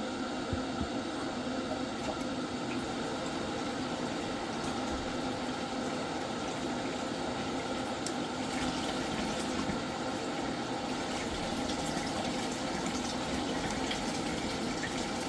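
Steady rush of water flowing through the Gledhill heating unit's pipework, with a faint steady hum, while the boiler has not fired.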